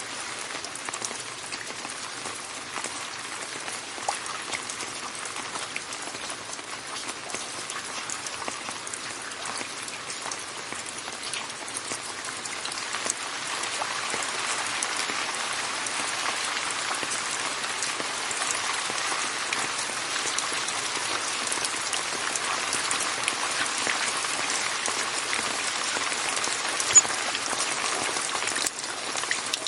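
Steady rain falling, a dense patter of many small drops, growing heavier about halfway through. One sharp drop or tick stands out near the end.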